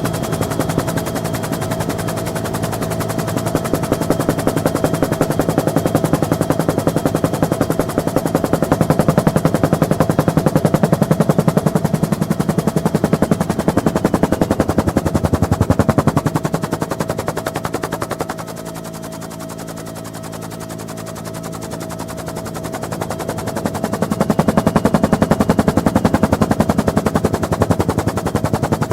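Bell UH-1N Twin Huey helicopter heard on board: rapid, continuous rotor blade chop over the drone of its twin turbine engines, with a steady whine running through. The chop swells louder twice, easing off for several seconds in between, as the aircraft flies and manoeuvres.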